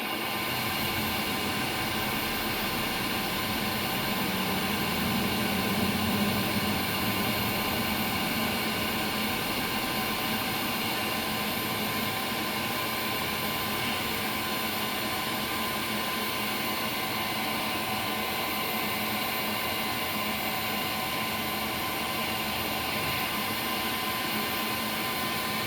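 Combustion blower of a 120-gallon high-efficiency natural gas water heater running steadily, a hum with a few fixed tones. The unit is slow through its start-up sequence: the burner has not yet lit.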